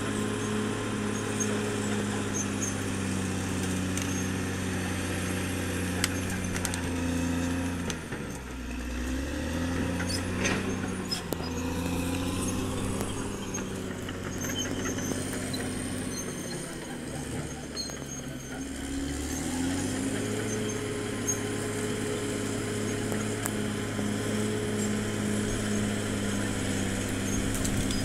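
Caterpillar D6R XL bulldozer's diesel engine running steadily. About eight seconds in the engine note drops to a lower speed and holds there until about twenty seconds, then rises back up, with a few sharp knocks in between.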